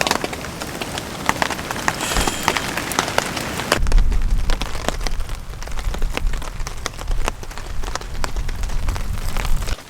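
Heavy rain falling, with many separate drops ticking sharply over a steady hiss. About four seconds in, a strong low rumble of wind buffeting the microphone joins in and stops abruptly near the end.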